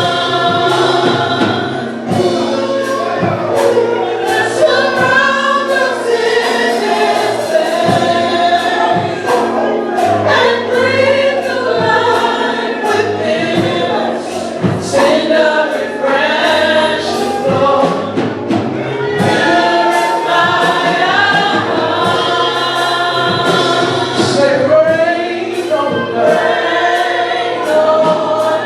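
Gospel choir singing a worship song with a band, over a steady bass line and a regular drum beat.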